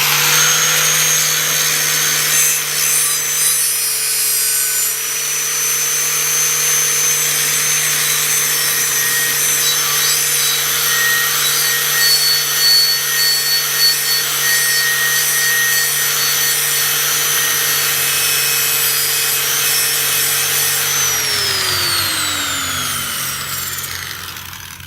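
Grinder with a wire wheel running steadily while it brushes rust off a steel blade, a rough scraping over the motor's hum. About 21 s in the motor is switched off and its pitch falls as the wheel spins down.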